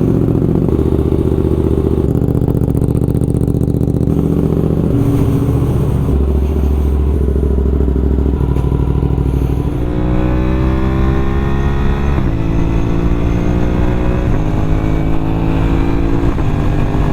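2024 Suzuki GSX-8S's parallel-twin engine running through a full M4 exhaust, steady at low revs for about ten seconds. It then revs up in rising sweeps, with a brief drop in pitch about twelve seconds in.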